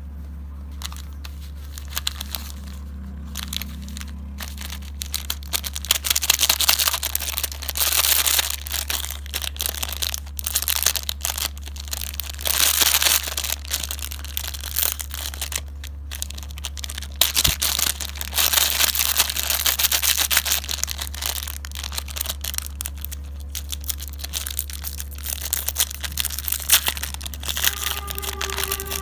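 Crinkly snack and candy wrappers being handled and torn open, crackling in irregular bursts over a steady low hum.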